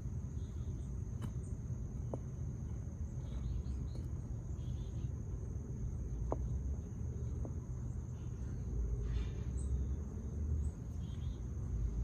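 Outdoor background of a steady, high-pitched insect drone over a low rumble, with a few faint ticks.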